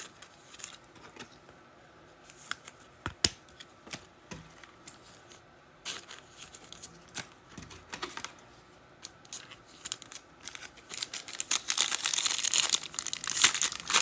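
Trading-card packs being handled: scattered light clicks and taps at first, then from about eleven seconds in a pack wrapper being torn open and crinkled.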